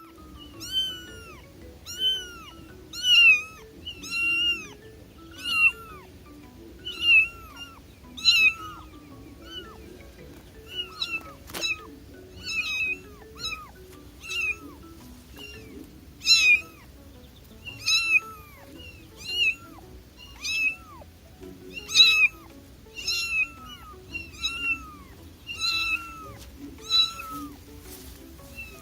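A kitten meowing over and over, short high-pitched mews about one every second and a half, with a faint background of music underneath and a single click near the middle.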